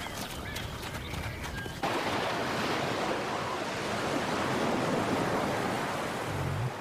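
Sea surf washing on a beach, a steady rush of waves that starts suddenly about two seconds in, after a shorter stretch of fainter animal sounds. A brief low sound comes near the end.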